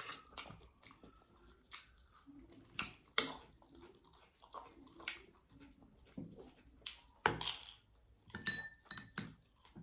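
People eating a rice and chicken meal: irregular chewing and mouth sounds mixed with scattered clicks and clinks of food, hands and utensils on plates, one clink briefly ringing near the end.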